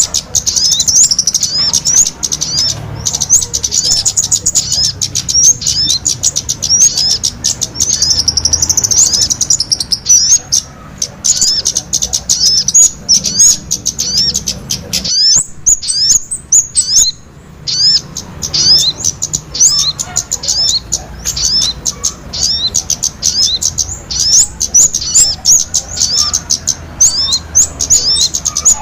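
Small birds chirping in a fast, unbroken string of high, sharp notes, with a brief lull about halfway through: a recorded lure call for catching small birds.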